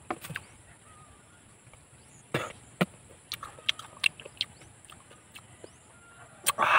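Close-up mouth sounds of someone eating freshwater snails: scattered lip smacks and chewing clicks, with a short louder burst about two and a half seconds in and another near the end.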